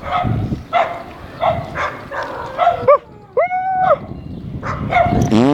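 Dogs barking repeatedly in short sharp barks, then a longer drawn-out whining cry a bit past the middle.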